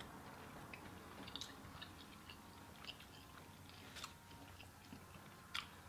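Faint chewing of tender lobster meat: a scatter of small, wet mouth clicks, the sharpest about four seconds in and again near the end.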